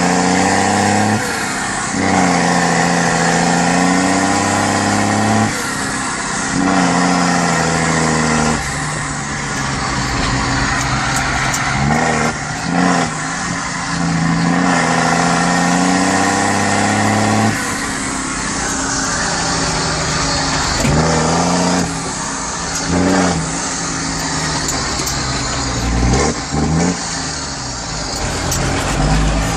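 John Deere 6920 tractor's six-cylinder diesel engine through a straight-pipe exhaust, its speed climbing and then falling back sharply again and again, every few seconds.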